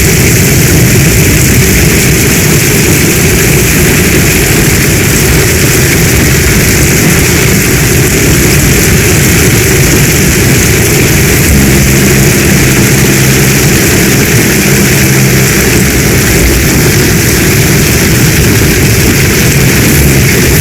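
Loud, steady storm rain noise with a deep low rumble underneath. A low droning tone joins it for a few seconds about halfway through.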